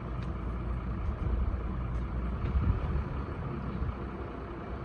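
A heavy machine's engine running steadily with a low rumble.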